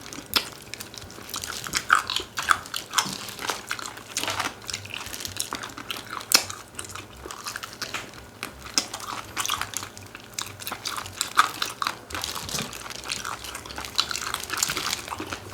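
Close-up eating sounds: chewing and biting on chicken, with many irregular crunches and wet clicks.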